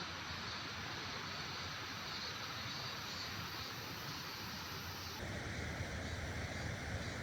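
Steady rush of fast-flowing stream water. About five seconds in, the sound shifts abruptly to a deeper, rougher rush.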